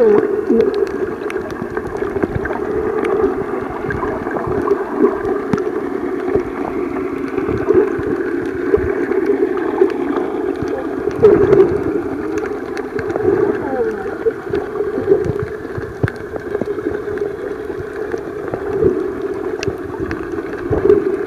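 Muffled underwater water noise with gurgling, heard from below the surface while snorkeling, with faint scattered clicks.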